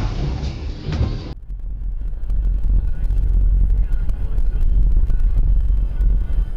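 Car driving noise as picked up by a dashcam: a deep, steady rumble of engine and road that grows louder, with an abrupt change in sound about a second and a half in.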